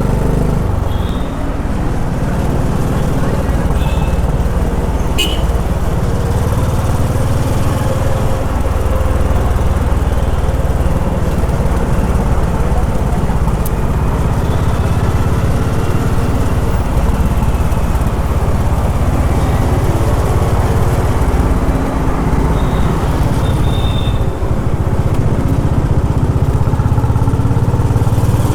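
Honda H'ness CB350's air-cooled single-cylinder engine running steadily under way in city traffic, with road and wind noise, the level dipping briefly twice.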